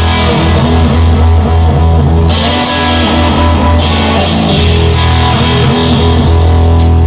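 Instrumental rock music, a song intro with guitar, bass and drums playing loud and steady, with cymbal crashes every couple of seconds.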